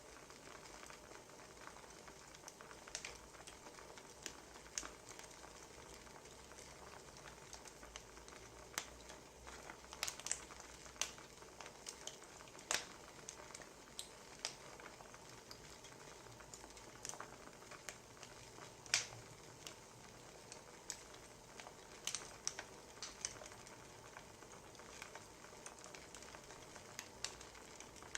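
Wood fire crackling: a soft steady hiss with irregular sharp pops and snaps, several every few seconds.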